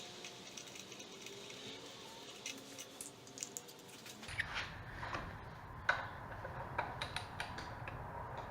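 Faint, irregular metallic clicks and taps start about four seconds in, from a socket and torque wrench being worked on a motorcycle's front axle slider rod.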